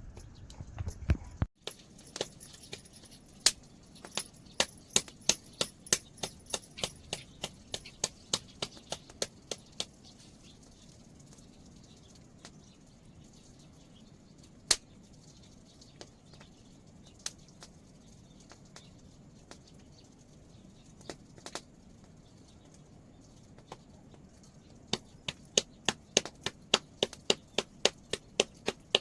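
Sharp knocks repeating at about two a second in runs, with a stretch of only scattered single knocks in the middle.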